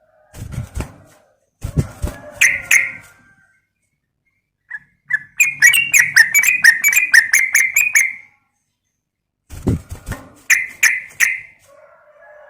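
Yellow-vented bulbul (trucukan) calling: short bubbly phrases, with a fast chattering run of even notes, about five a second, in the middle.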